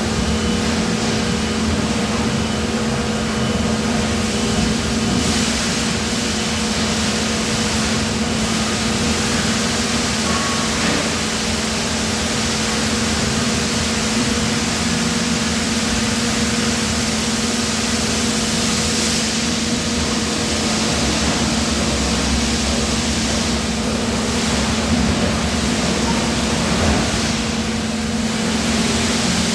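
Steady drone of running industrial machinery: a constant hum under an even hiss.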